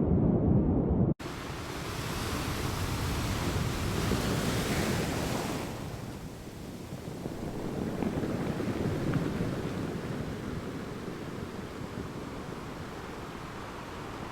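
Sea waves washing on a shore, a steady rushing surf that swells and eases in slow surges, with some wind on the microphone. It is preceded by a louder, deeper wind rumble that cuts off abruptly about a second in.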